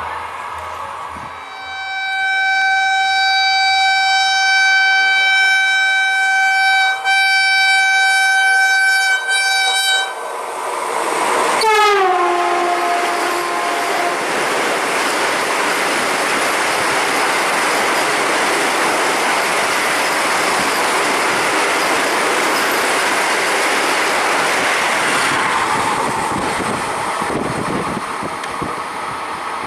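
Passing express train: its horn sounds in one long steady blast of about eight seconds. A second blast drops sharply in pitch as the train goes by, then comes the loud rushing clatter of the carriages passing at speed, easing off near the end.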